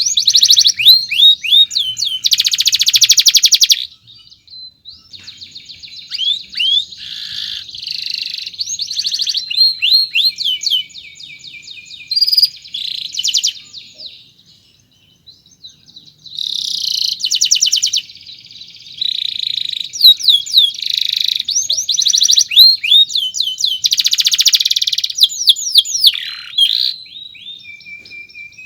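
Domestic canary singing a long song of fast trills and rapid repeated chirps, with a short lull about halfway through.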